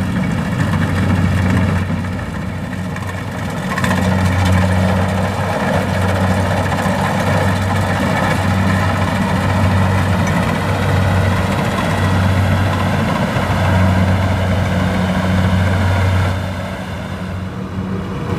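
Diesel engine of a rice-harvesting farm machine running steadily with a low hum, dipping in level briefly twice.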